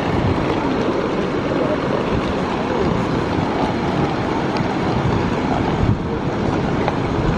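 Steady wind rushing and buffeting on the microphone while walking outdoors.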